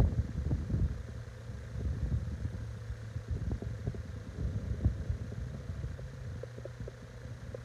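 Strong wind buffeting the microphone in uneven gusts, a low rumble that swells and fades.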